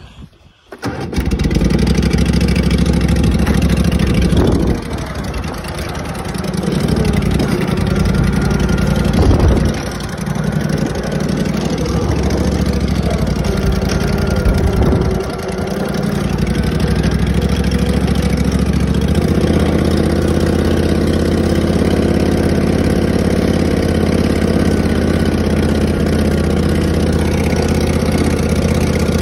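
Tractor engine starting up about a second in, then running with a few changes in speed before settling into a steady idle.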